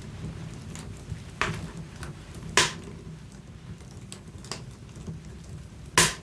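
Wood fire crackling in a fireplace: a steady low rumble of flames with sharp pops from the burning logs, the loudest about two and a half seconds in and near the end.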